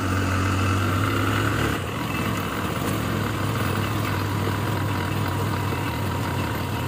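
Motorcycle engine running steadily with a low hum; the note eases slightly about two seconds in.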